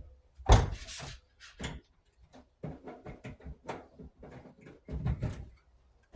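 Irregular knocks, clunks and rustles of hands handling the new miter saw and its gear. The loudest clunks come about half a second in and around five seconds in.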